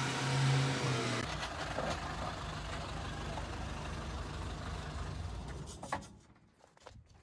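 Dodge M37 truck's flathead straight-six engine running with a steady hum. About a second in it gives way to a rougher low rumble, which fades out about six seconds in.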